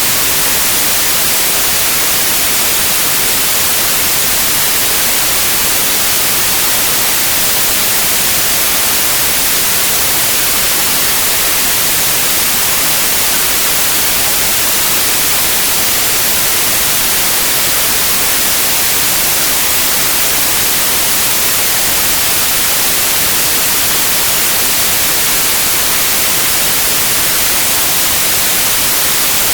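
Continuous synthetic white noise: a steady, loud, even hiss, bright in the treble, with no change in level.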